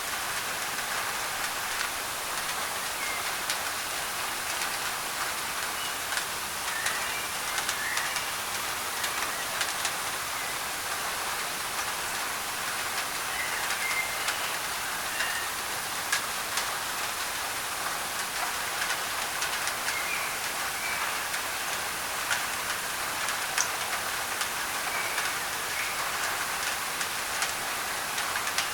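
Steady rain falling on a thin tin roof, with many sharp drop ticks, blended with white noise. Short bird chirps come through now and then.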